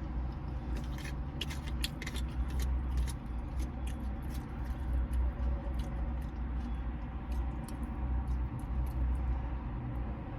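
Eating sounds: chewing, and a fork clicking and scraping in a plastic food container, with scattered short clicks, over a steady low hum in the car's cabin.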